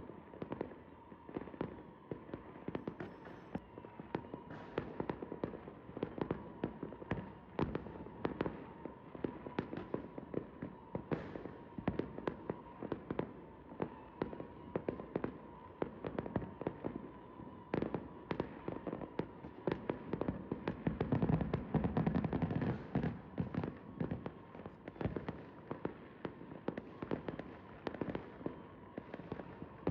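Fireworks and firecrackers going off continuously: a rapid, irregular string of sharp bangs and crackles. It is densest and loudest about two-thirds of the way through.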